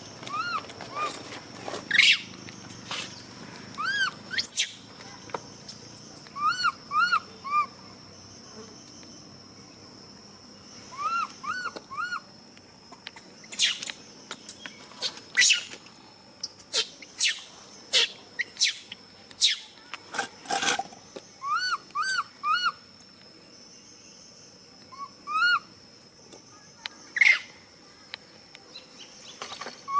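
Monkeys' short calls, each rising and falling in pitch, given in quick runs of two to four over and over, over a steady high thin whine and a few sharp clicks.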